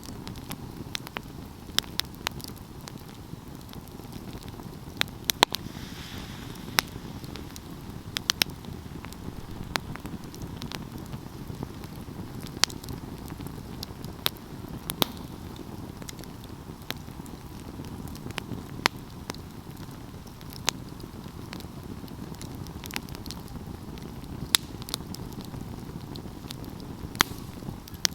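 Wood fire burning with a steady low rush and irregular sharp crackles and pops, about one or two a second, the loudest about five seconds in.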